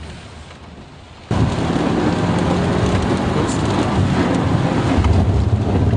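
Inside a car driven hard on a wet course in heavy rain: about a second in the sound jumps abruptly to a loud rushing of rain and tyre spray with a steady engine drone underneath.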